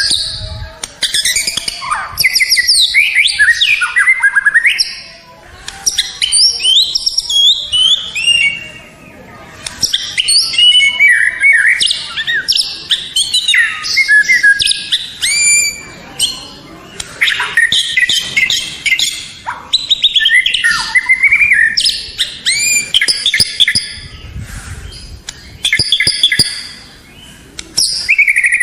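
White-rumped shama (murai batu) singing a loud, rich song of rapid, varied whistles and chatters. The phrases come in runs of a few seconds, with short pauses between them.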